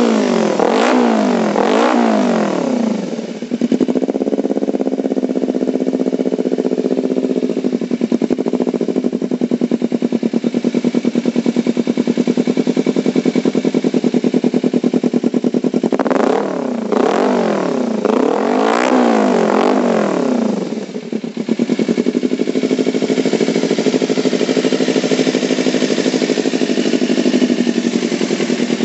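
Kawasaki Ninja 250 FI parallel-twin engine running through an RRS racing exhaust, idling steadily with a few quick throttle blips that rise and fall in pitch at the start and again about two-thirds of the way through.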